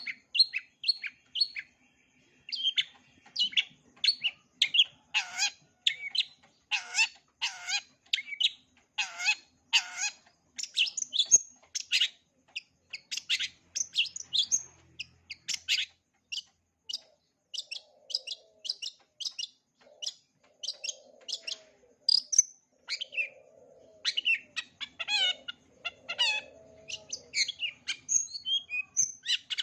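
Long-tailed shrike singing a fast, varied run of short chirps and whistles, its song stuffed with mimicked calls of other birds.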